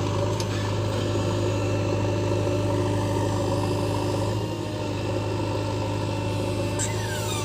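JCB 3DX backhoe loader's diesel engine running steadily with a low, even drone.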